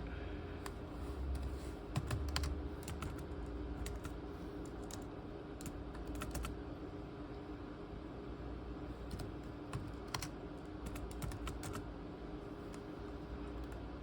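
Typing on a ThinkPad T23 laptop keyboard: scattered, irregular key clicks, in small clusters around two, six and ten to eleven seconds in, over a steady low hum.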